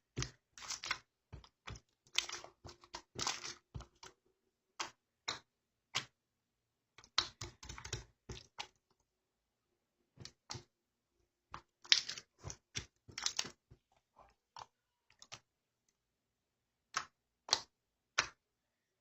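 Irregular sharp clicks and taps, some in quick clusters and some alone, with pauses of a second or two between them.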